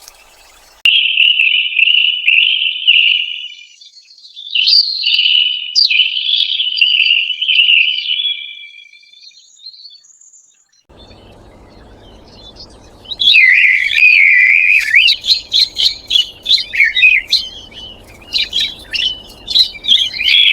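Songbird chirping and warbling in two passages: the first fades out about nine seconds in, and the second starts a few seconds later as a string of quick chirps.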